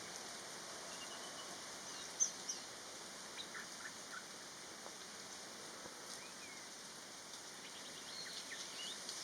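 Wild birds giving several short, high chirps and whistles over a steady, faint high hiss of forest ambience.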